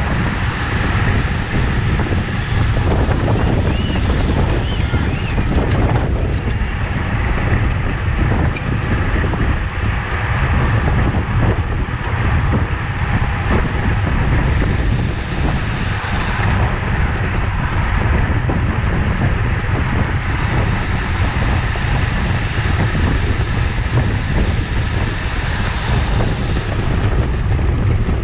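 Wind rushing over the microphone of a road bike at race speed, a steady low rumble mixed with tyre and road noise.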